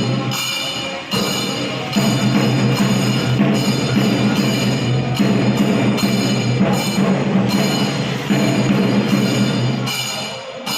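Chenda drums beaten fast and continuously, with brief breaks in the rhythm, over a steady metallic ringing of cymbals: the traditional percussion accompanying a Muthappan vellattam.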